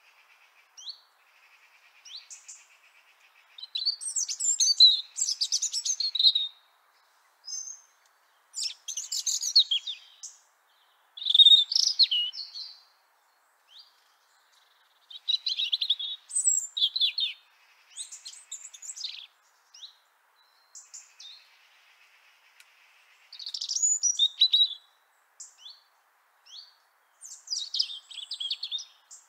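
European robin singing: a series of high, rapidly varying warbling phrases, each a second or two long, separated by short pauses.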